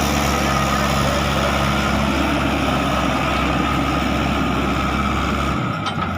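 Heavy truck engine idling steadily with a low, even rumble, cutting off just before the end.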